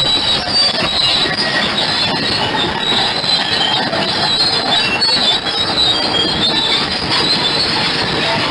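Crawler bulldozer at work, its steel tracks giving off high-pitched squeals over a steady din of engine and track clatter.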